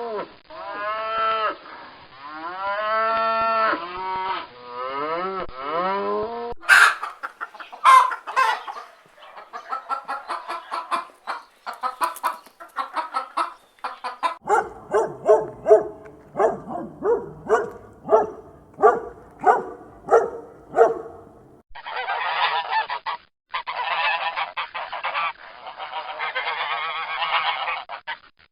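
A goat bleating in several long, wavering calls, then domestic geese honking: sharp repeated honks, about two a second at their most regular, giving way near the end to a denser, harsher chorus of the flock.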